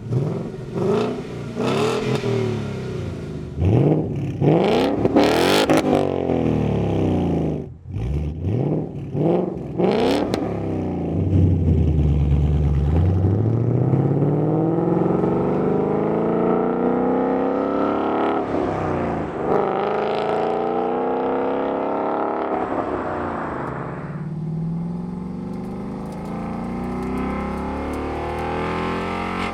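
2018–2019 Ford Mustang GT's 5.0-litre V8 through an MBRP Pro-Series Street Version stainless cat-back exhaust. It is blipped in a string of quick revs that rise and fall, then pulls in one long climb in pitch with a brief dip partway, and eases off to a lower steady note near the end.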